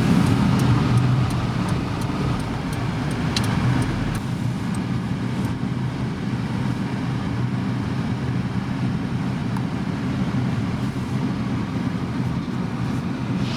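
Steady road-traffic rumble, with a few faint sharp ticks in the first few seconds.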